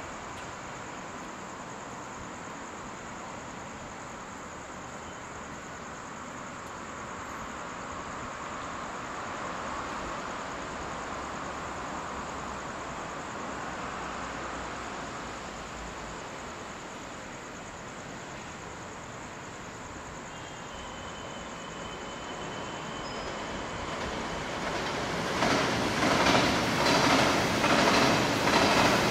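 A CRH1A electric multiple unit train pulling away from the station and passing along the track. A steady hum comes first, then near the end it grows louder, with the wheels clacking over rail joints in a quick, regular rhythm.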